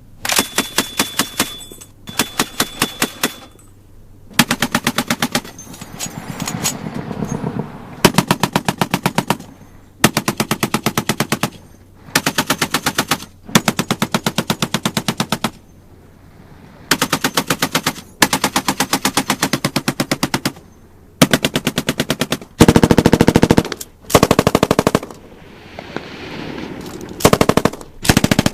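Automatic gunfire: a series of rapid bursts of shots, each lasting a second or two, with short pauses between them.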